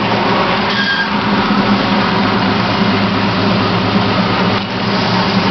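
1977 Chevrolet C10's engine running steadily through its Flowmaster exhaust, a low, even engine note that holds the same pitch throughout.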